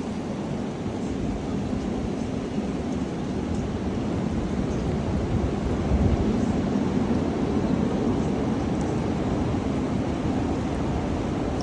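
Strong wind blowing hard, a steady low rushing roar with the gusts buffeting the microphone, building over the first few seconds and strongest about six seconds in.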